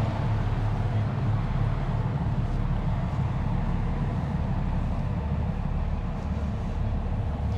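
A car ferry's diesel engines running steadily, giving a continuous low rumble with a constant hum beneath it and a noisy wash above.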